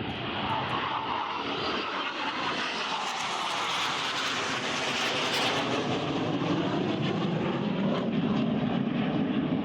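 Fixed-wing aircraft flying past, its engine noise peaking about four to five seconds in with a falling pitch as it passes, then a lower rumble that keeps growing toward the end.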